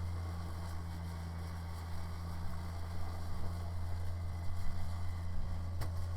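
Kubota BX sub-compact tractor's engine running steadily with its rear-mounted Kubota 2789 snowblower, a low even drone. A single sharp click comes near the end.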